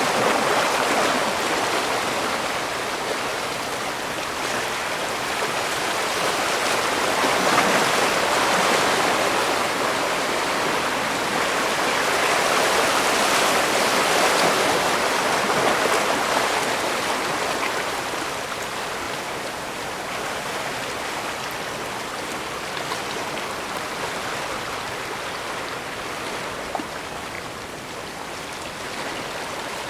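Sea waves washing in: a steady rush of water that swells and eases over several seconds at a time, loudest in the middle and softer near the end.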